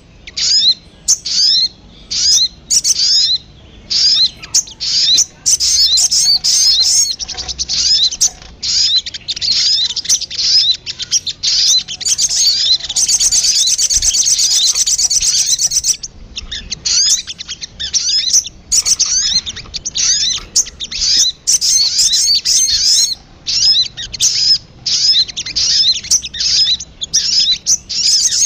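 Recorded sogon birdsong used as a lure call: runs of rapid, high-pitched chirps with short gaps, and one steady unbroken trill lasting a few seconds about halfway through.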